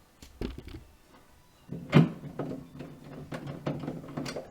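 A screw being driven into a fridge's plastic side rail: a couple of light clicks, a sharp knock about two seconds in, then a run of small clicks and creaks as the screw tightens.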